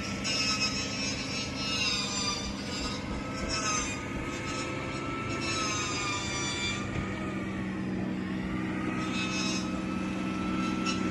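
Motorboat engine running steadily, its low hum under a whine that wavers up and down and dips briefly about eight seconds in, with patches of rushing water or wind noise.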